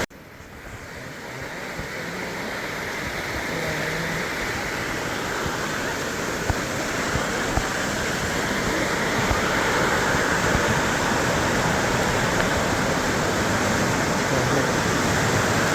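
Waterfall water rushing over rock in a steady, even roar. It swells up from quiet over the first few seconds.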